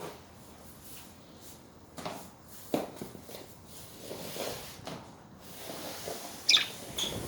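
Pet budgerigars in a cage: scattered light knocks and rustling, then a short, sharp chirp near the end, the loudest sound, followed by a second brief chirp.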